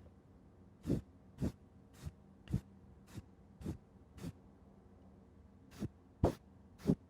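A series of light, sharp taps on a hard object, about ten of them at uneven intervals of around half a second, with a pause of a second or so in the middle.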